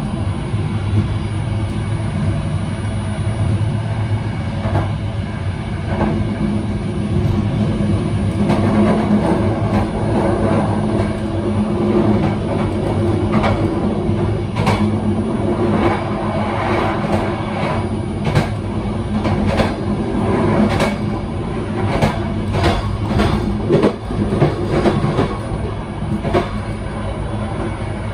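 Train running on the track, heard from inside the rear cab: a steady low hum from the running gear, with sharp clacks of the wheels over the rails that come thick and irregular in the second half.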